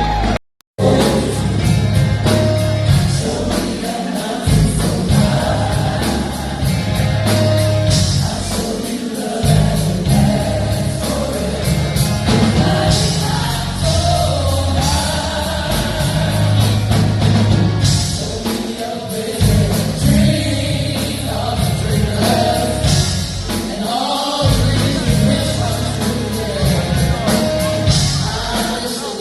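A gospel song: singing voices over a band with strong bass. A short cut to silence comes about half a second in, then the song carries on.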